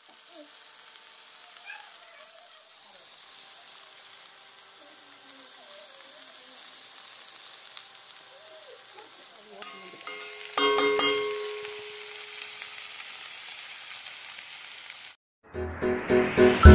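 Okra frying in oil in an aluminium kadai, sizzling steadily, with a brief louder metallic clatter of the spatula against the pan about ten seconds in. The sizzle cuts off near the end and loud music starts.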